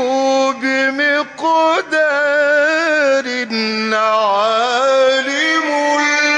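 A male Quran reciter chanting in the melodic mujawwad style, holding long notes that waver and bend in ornamented runs. There are a few short breaks in the first two seconds.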